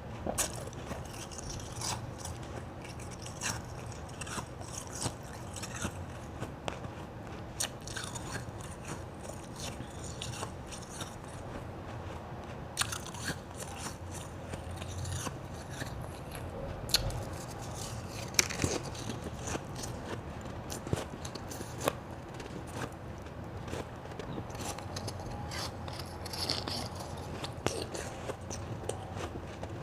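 Close-miked crunching and chewing of white ice, with irregular sharp crunches all through.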